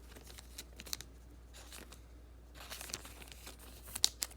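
Thin plastic penny sleeve crinkling as a trading card is slid into it, in short scattered bursts with two sharper crackles near the end.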